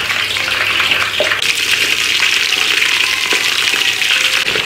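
A large whole fish deep-frying in a wok of hot oil: a steady, loud crackling sizzle.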